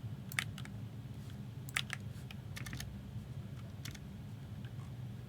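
Computer keyboard and mouse clicks in small scattered clusters, over a low steady hum.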